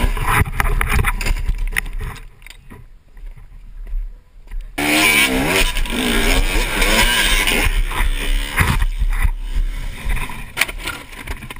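Dirt bike engine revving up and down, with knocks and clatter mixed in; it drops back for a couple of seconds, then comes back loud all at once.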